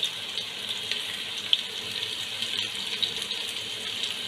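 Sliced onions and curry leaves sizzling in hot oil: a steady hiss with a few small pops.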